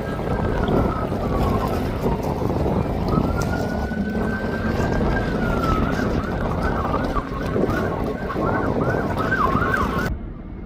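Emergency vehicle siren: a slow rising and falling wail that switches to a fast up-and-down yelp about six seconds in, over a steady rumble of traffic and wind. The sound cuts off abruptly to a duller rumble near the end.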